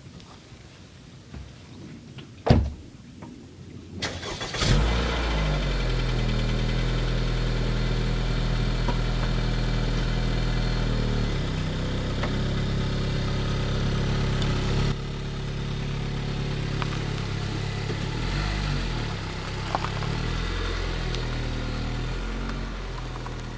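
A car door shuts with a single knock. About two seconds later the Honda Freed+'s engine starts and runs with a steady low hum, its level shifting a few times.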